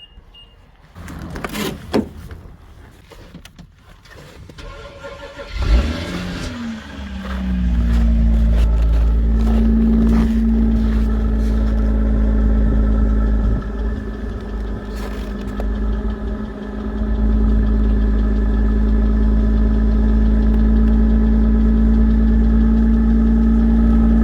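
Car engine's first cold start: a few clunks, then the engine catches about six seconds in with a rising note and settles into a steady idle. The idle drops lower for a few seconds past the middle, then picks back up. The owner thinks this cold start is healthy.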